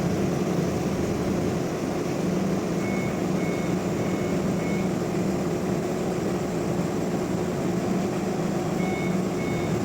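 Heavy machinery running steadily, with a vehicle's reversing alarm beeping about twice a second in two spells: one around three seconds in and one near the end.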